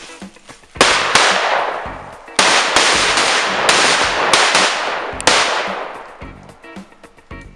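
Firecrackers going off: about half a dozen sharp bangs over some four seconds, each followed by a loud crackling hiss, dying away about six seconds in.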